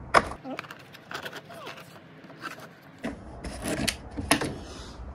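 Handling noise as the loose roof of a card model waiting room is lifted off: rubbing and scraping of card, with a sharp click just after the start and two more about four seconds in.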